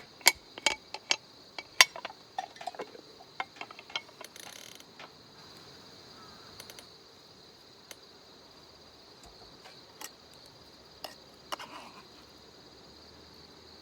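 Metal utensils and cookware clinking and tapping, a quick run of clinks in the first few seconds and a few more near the end, over a steady high chirring of insects.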